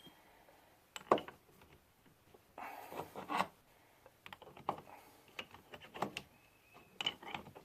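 Scattered clicks and knocks with short rustling bursts as objects are handled; the sharpest knock comes about a second in, and there is a brief noisy burst around three seconds.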